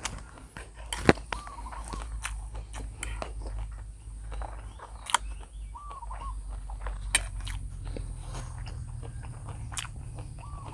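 A person chewing and eating a mouthful of instant noodles close to the microphone, with scattered sharp clicks over a steady low hum. A short chirp is heard three times, a few seconds apart.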